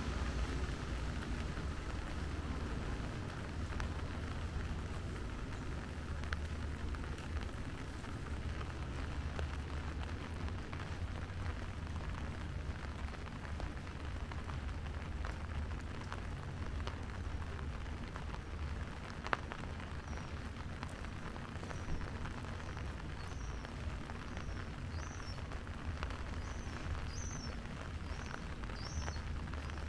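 Steady rain falling, with many small drop clicks over a constant low rumble. In the second half, a run of short high chirps sounds over it.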